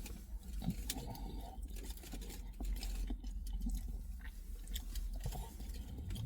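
A person chewing a mouthful of pork doner kebab close to the microphone, with irregular small wet clicks, over a steady low hum.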